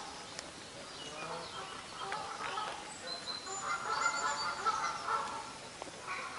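Wild birds calling, several overlapping: lower pitched calls that swell about halfway through, with thin high whistled notes above them.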